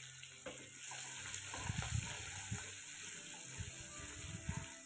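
Sliced garlic and red chilies sizzling softly in hot oil in a non-stick wok, with soft knocks of a spatula stirring them through the second half.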